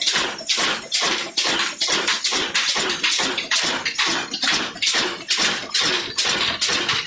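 Old Ruston Hornsby diesel engine running under load while driving a wood cutter, a rhythmic mechanical beat of about three to four strokes a second, with a sharp, squeaky edge.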